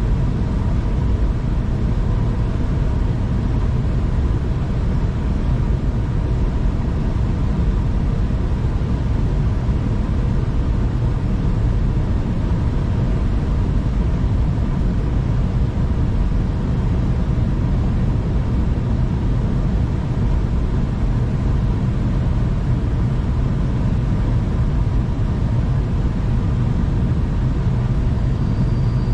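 Steady rumble of a V/Line passenger train running along the track, as heard inside the carriage, with a faint steady hum in it.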